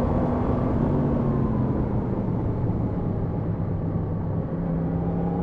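Yamaha MT-10 SP's crossplane inline-four engine running on the move, its pitch sagging slowly as the revs drop and picking up again near the end, over a steady rush of wind.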